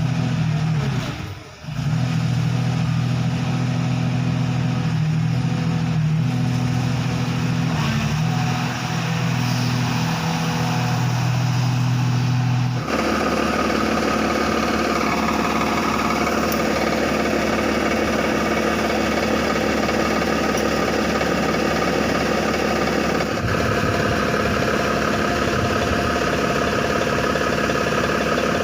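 Komatsu PC200-5 excavator's diesel engine running steadily. About halfway through, the sound changes abruptly to a higher pitch and stays there.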